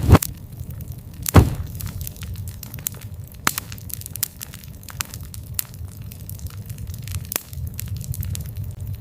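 Wood fire burning with a low steady rumble and scattered sharp crackles, and two loud pops about a second apart near the start.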